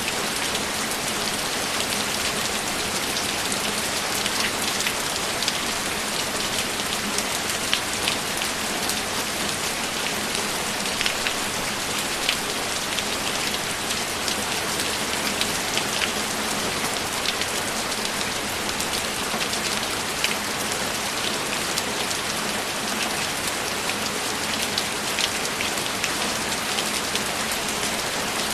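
Steady rainfall, an even wash of noise with many individual drops ticking sharply through it.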